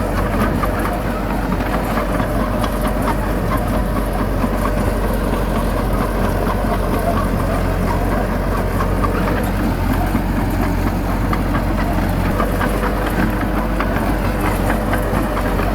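Heavy diesel engine of earthmoving machinery running steadily, with scattered light clanks over it.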